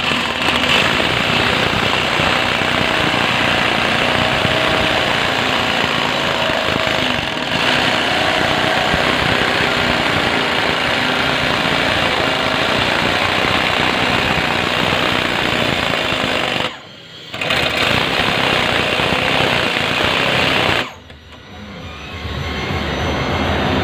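Electric jigsaw cutting multiplex plywood in a circle on a custom circle-cutting jig, its blade running steadily. It stops briefly about 17 s in, drops again about 21 s in, then slowly picks back up near the end.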